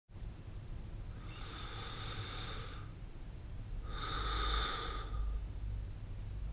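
A person breathing slowly and heavily: two long breaths about three seconds apart, over a steady low rumble.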